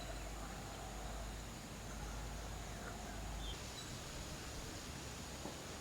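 Outdoor ambience: a steady hiss with a faint, steady high-pitched whine, a few faint short bird chirps, and a low rumble that stops about halfway through.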